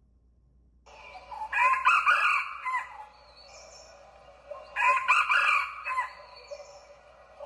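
A rooster crowing twice, each crow lasting about a second, with faint short chirps of small birds between the crows.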